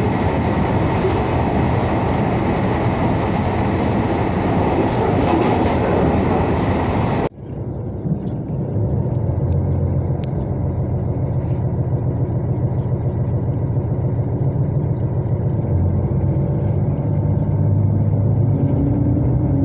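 Diesel limited express train heard from inside: a loud, steady rush of wheel and rail noise at speed. About seven seconds in this cuts to a steady low engine hum as the train stands at a station, and near the end the engine note rises as it begins to pull away.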